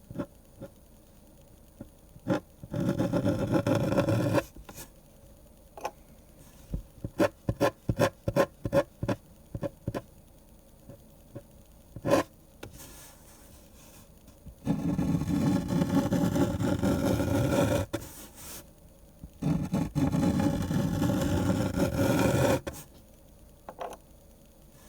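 Pen scratching on paper while drawing a manga: a run of about a dozen quick short strokes, and several longer continuous scratching spells of one to three seconds each.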